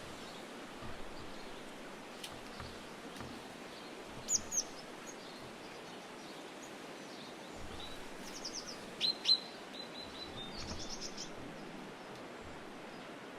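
Small songbirds calling: scattered short, high chirps and a couple of quick trills over a steady background hiss, with the loudest pair of calls a little past the middle.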